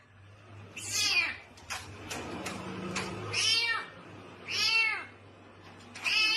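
Domestic cat meowing four times in a row, each call sliding down in pitch, roughly a second or so apart.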